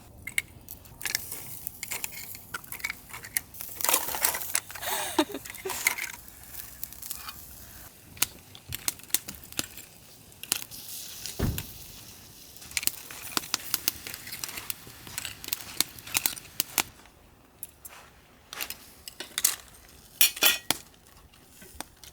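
Dishes and utensils clinking and knocking irregularly, many short sharp clicks over a light hiss.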